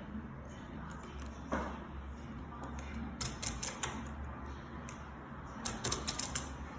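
Plastic Lego bricks clicking and snapping as pieces are pulled apart and pressed together, in scattered groups of sharp clicks: one about a second and a half in, a run about three seconds in and another near the end.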